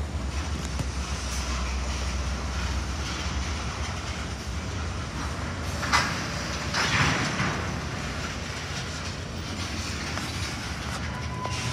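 Idling freight train: steady low diesel rumble with a constant mechanical noise. About six seconds in comes one sharp clank, followed by a louder noisy burst lasting about a second.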